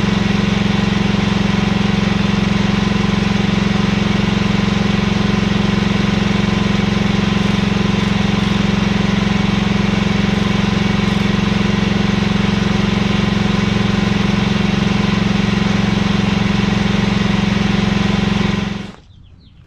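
Mini excavator's engine running steadily with a low, even drone, cutting off abruptly near the end.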